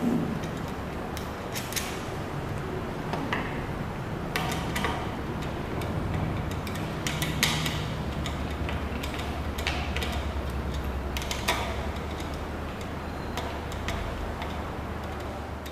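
Scattered clicks, knocks and creaks of ceiling fan blades and their metal brackets being handled and fitted, over a low hum that grows stronger from about six seconds in and eases near the end.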